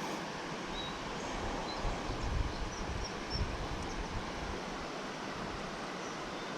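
Steady outdoor hiss of wind and flowing creek water, with low wind buffeting on the microphone between about two and three and a half seconds in. A few faint, short high chirps sound over it.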